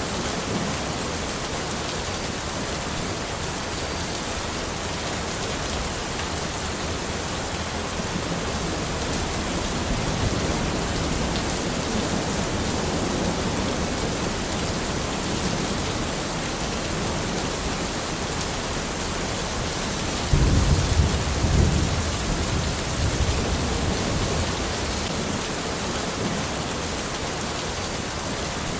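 Steady rain falling in a forest, with low rolls of thunder; the loudest rumble comes about two-thirds of the way through.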